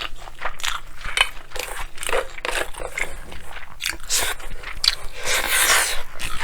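Close-miked chewing of a mouthful of bibimbap, with many quick wet mouth clicks and crunching bites, and one longer, noisier sound lasting about a second near the end.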